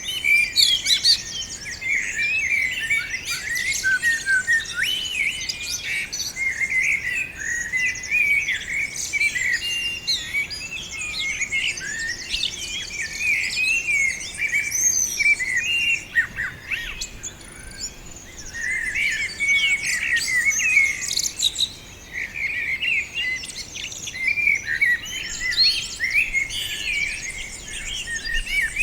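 A group of small songbirds chirping and twittering together, many short overlapping calls and trills, with a couple of brief lulls past the middle.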